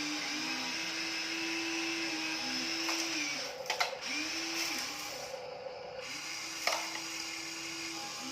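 Huina RC dump truck's small electric motors whining, the pitch stepping up and down as the motors slow, stop and start again. Sharp clicks or knocks come just under halfway through and again about two-thirds of the way in.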